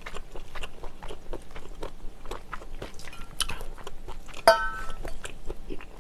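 Close-miked chewing and mouth sounds of a person eating spicy noodle soup. About four and a half seconds in, a single sharp clink rings out from the metal spoon in her hand.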